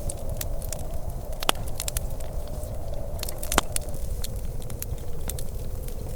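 Wood fire crackling, with scattered sharp snaps and two louder pops about a second and a half and three and a half seconds in, over a low steady rumble.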